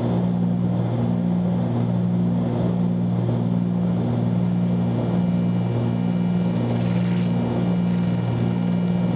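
Cockpit drone of a 1974 Cessna 310Q's twin six-cylinder Continental engines and propellers in flight, running steadily at climb power. The deep hum pulses evenly about one and a half times a second.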